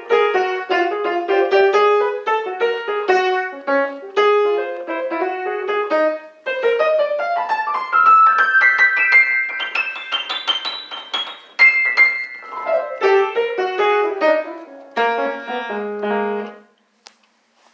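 Piano music: quick, dense notes, with a long rising run of notes in the middle. It stops about a second before the end.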